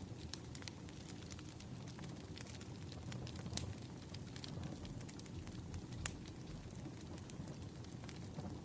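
Wood fire burning, with irregular crackles and sharp pops over a low steady rumble.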